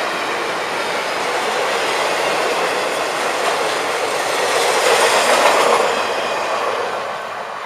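Freight cars of a Florida East Coast Railway freight train rolling past, a steady rumble and rattle of steel wheels on the rails that fades away near the end.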